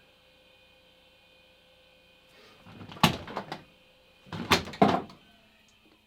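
Two brief clunks about a second and a half apart, each a short rustle ending in a sharp click, over a faint steady hum.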